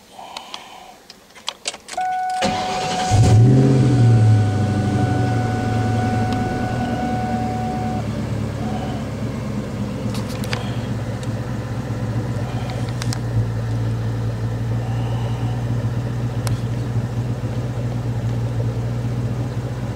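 Key clicks in the ignition, then the 2003 Mustang Cobra SVT's supercharged 4.6-litre V8 cranks briefly and starts, revving up for a second or two before settling into a steady idle. A steady tone sounds for about five seconds from the key turn.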